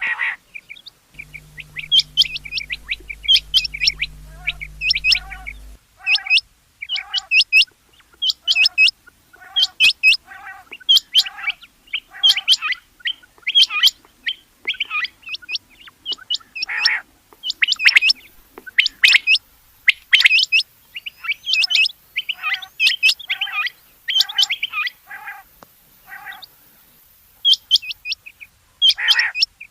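Rain quail calling: loud, short, sharp notes repeated in quick runs of several a second, with brief pauses between runs.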